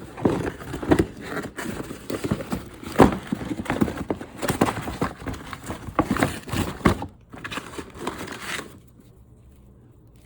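Packaging being opened and consumer firework artillery shells handled: quick knocks and clacks with crinkling and tearing of plastic and cardboard. It stops about nine seconds in.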